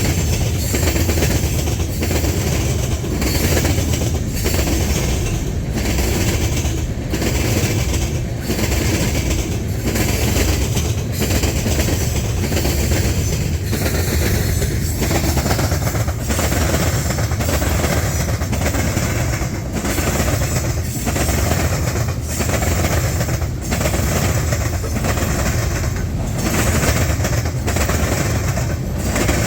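Canadian National freight train's cars rolling past, a steady low rumble with rhythmic wheel clacks about once a second as the wheels cross the rail diamond.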